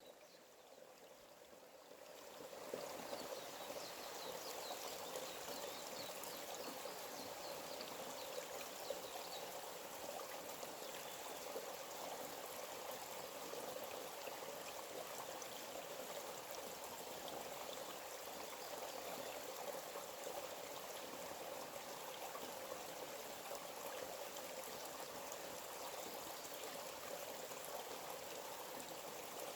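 Forest stream flowing in a steady rush, fading in over the first couple of seconds.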